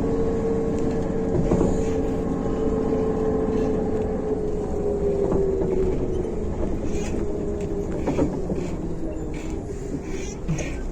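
MAZ-105 articulated city bus running, heard from inside, with a drivetrain whine that slowly falls in pitch over a low rumble as the bus slows. There are occasional knocks and rattles from the body.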